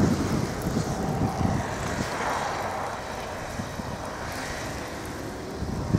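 Wind buffeting the microphone, with a vehicle passing on a snow-covered road: its engine and tyre noise swell to a peak about two seconds in, then fade.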